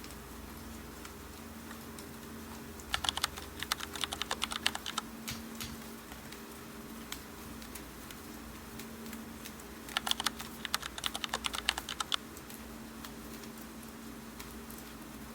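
Computer keyboard typing in two short bursts of rapid key clicks, over a steady hiss of rain.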